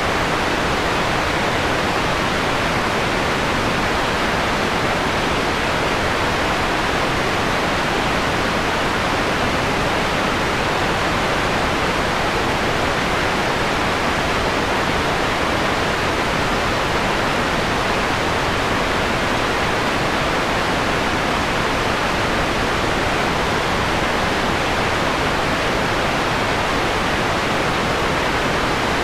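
Steady white noise, partly dimmed toward a mellower tone: an even, unchanging hiss with its highest frequencies softened.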